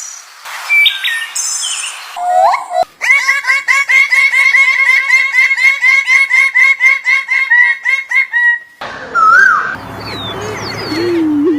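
Bird calls spliced together with abrupt cuts. The longest part is a fast, even run of repeated chirps, about five a second, lasting nearly six seconds; short whistled calls come before it, and a rising call and lower notes come after it.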